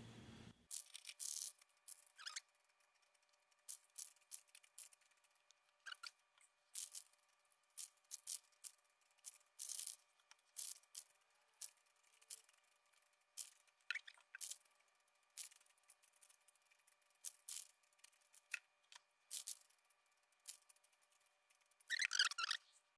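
Aerosol spray-paint can hissing in short, repeated bursts as black paint is sprayed onto an alloy wheel one spoke at a time.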